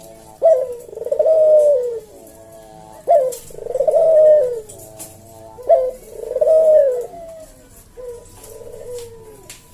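Javanese puter dove (domestic Barbary dove) giving its slow 'kuk-deruk' cooing song: a short sharp note followed by a long wavering coo, repeated about every two and a half seconds, the last phrase fainter.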